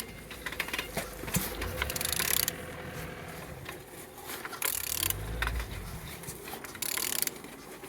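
A used engine's crankshaft being turned over by hand with a tool: scattered metallic clicks and ratchet-like ticking, with two short scraping bursts and a low rumble partway through. The engine turns freely with compression on all cylinders.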